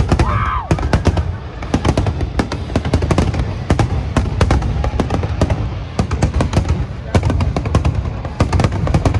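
Fireworks shells bursting in a dense, rapid barrage: a continuous run of bangs and crackle, many reports a second.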